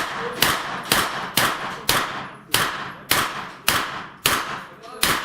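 A rapid string of gunshots, about ten in all at roughly two a second, each followed by a reverberating tail; the pace slows slightly toward the end of the string.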